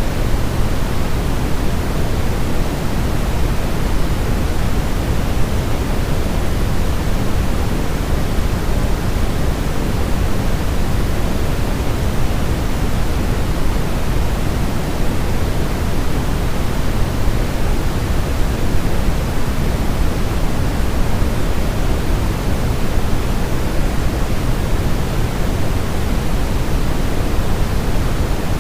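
Steady, unchanging hiss of a white noise sleep-aid track, its energy weighted toward the low end like pink noise, with no events or changes.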